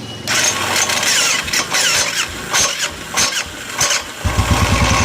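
Royal Enfield single-cylinder engine cranked on its electric starter with a loud, harsh grinding for about four seconds, then catching and idling with a steady low thumping. The grinding on self-start comes from a failed starter one-way clutch bearing, its rollers worn and fallen out and its springs broken.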